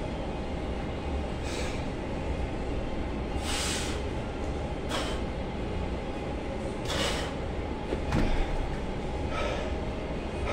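A weightlifter's short, forceful exhalations, one per rep, about every one to two seconds during heavy one-arm dumbbell rows, over a steady low rumble.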